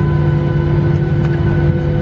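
Steady droning hum of an airliner cabin, several held tones over a low rumble, unchanging throughout.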